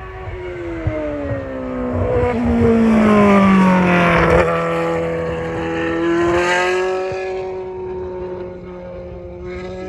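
Formula One car engine at high revs passing by. Its note falls in pitch as it comes past, loudest about four seconds in, then fades away.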